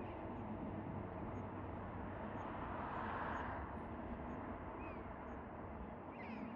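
Low, steady rumble of a train running past, easing off slightly near the end, with a few short bird chirps over it.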